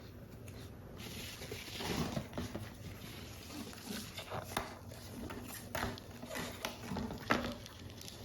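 Paper model parts being handled during assembly: soft rustling of paper with about half a dozen sharper taps and crinkles between two and seven and a half seconds in.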